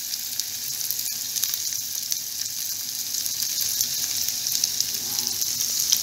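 Spoonfuls of sausage, egg and vegetable fritter batter sizzling in hot oil in a frying pan, a steady hiss with many small pops.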